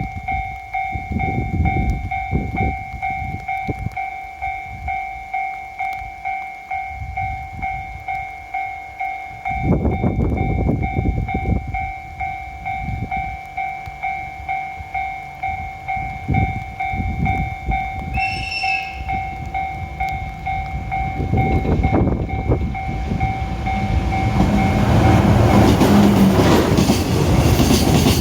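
DF200 diesel-electric freight locomotive and its train approaching, with a steady two-tone warning tone sounding and low pulsing rumbles beneath it. A short high horn note comes about eighteen seconds in. The sound grows loud over the last several seconds as the locomotive and wagons pass.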